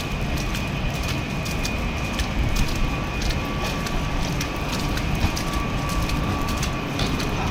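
City street ambience in a snowstorm: a steady hiss with many small, irregular clicks and crackles, and a faint high steady tone underneath.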